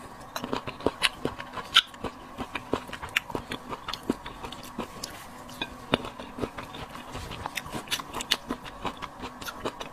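Close-up biting and chewing of crisp fresh cherries: irregular wet crunches and mouth clicks, several a second, over a faint steady hum.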